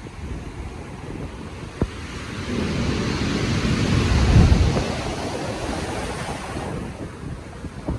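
Rough ocean surf in stormy wind: a wave builds, breaks about four seconds in, and washes back, with wind buffeting the microphone.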